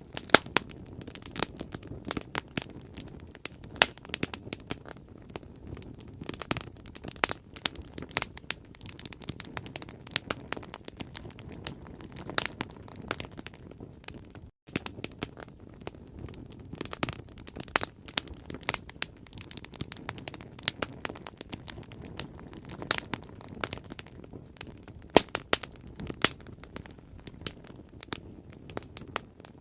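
Bonfire crackling and popping: irregular sharp snaps of burning wood over a steady low rumble of the flames. There is a momentary break in the sound about halfway through.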